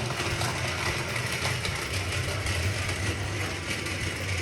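Battery-powered motorised toy train running on its plastic track: a steady whirring of the small electric motor and gears.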